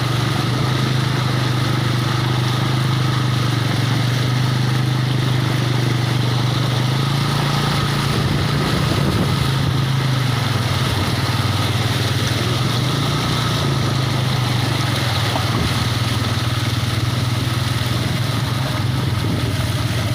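Rain hissing steadily under a continuous low mechanical hum, like an engine or motor running.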